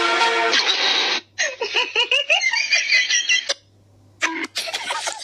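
A person giggling and laughing in short bursts. The laughter comes after a snatch of music at the start and before a brief near-silent gap near the end.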